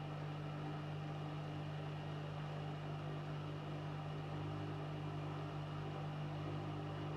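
Washing machine running with a steady electric motor hum.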